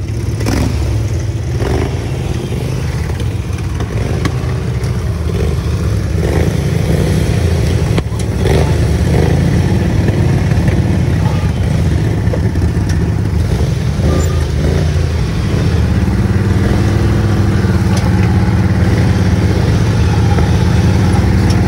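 Small engines of modified riding lawn mowers running under load as they crawl over rocks, the engine hum growing louder about eight seconds in, with a few scattered knocks.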